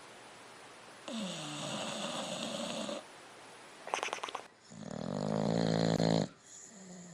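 Dog snoring in its sleep: a breathy snore, then a short fluttering rattle about four seconds in, then a longer, louder pitched snore that cuts off suddenly.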